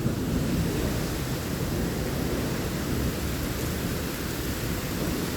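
Heavy rain pouring steadily during a thunderstorm: an even rushing noise with no distinct thunderclap.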